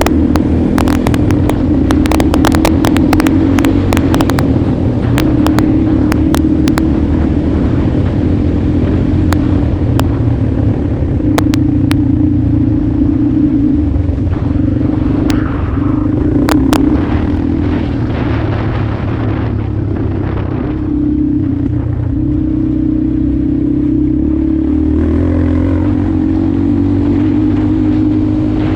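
Motorcycle engine running under way at a fairly steady pitch, dipping briefly every few seconds, with many sharp clicks over the first few seconds.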